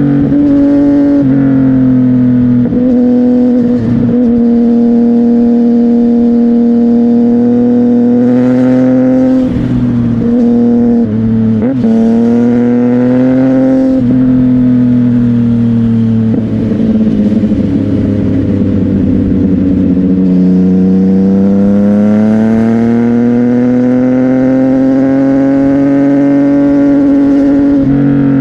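CFMOTO 675NK three-cylinder engine through a titanium aftermarket exhaust, pulling at steady riding revs with the pitch rising and falling a little. Past the middle it drops and sounds rougher, then climbs steadily and eases off near the end.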